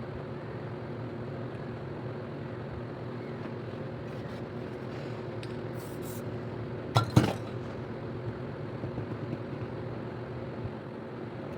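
Steady mechanical hum throughout, with a few short hisses of a spray paint can about five to six seconds in. Just after seven seconds come two sharp knocks, the loudest sounds.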